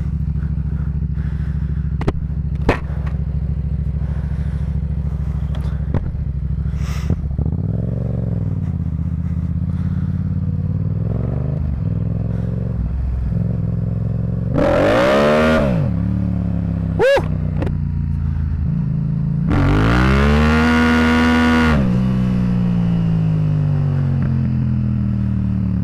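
Motorcycle engine running under way, its pitch rising and falling with the throttle, with two louder revs, one about halfway through and one in the last third. A few sharp clicks stand out over it.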